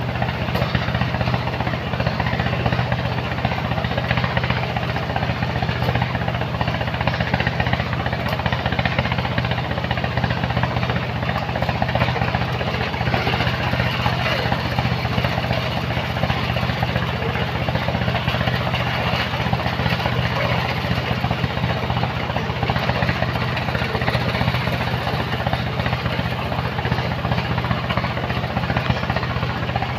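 Heavy machinery engine running steadily at a constant speed, with a fast even chugging and no change in pitch.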